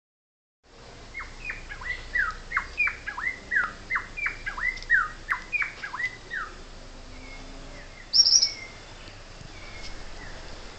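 A bird calling in a quick series of short chirps, each sweeping down in pitch, about two a second for some five seconds. A brief, loud high squeak follows a couple of seconds later.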